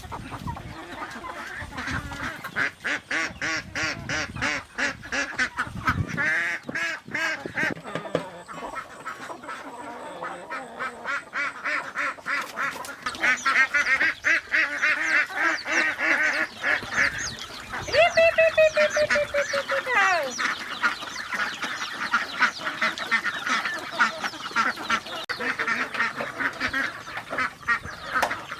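A flock of domestic waterfowl calling, a dense continuous chatter of quacks and honks, with one louder falling call about two-thirds of the way through.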